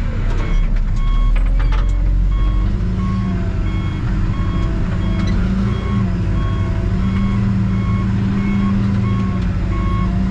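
Backhoe's diesel engine running under load, its reversing alarm beeping at a steady pace as the machine backs up. There are a few sharp knocks and clatter in the first couple of seconds.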